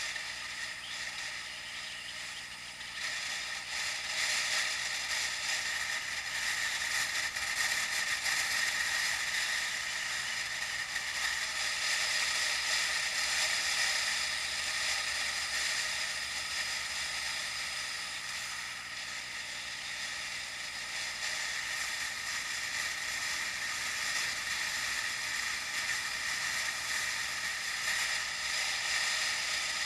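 A bicycle in motion: a steady hiss of rolling with light mechanical rattling from the bike, growing louder a few seconds in.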